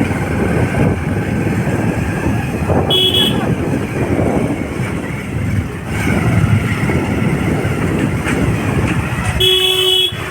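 Motorcycle riding noise: engine and wind rumble on the microphone, with a short vehicle horn honk about three seconds in and a longer honk near the end.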